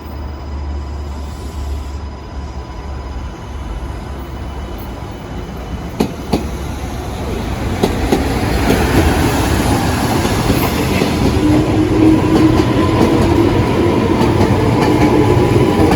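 Train approaching and passing on the rails. A low rumble swells into a loud run about halfway through, with a couple of sharp clicks before it and a faint steady whine on top.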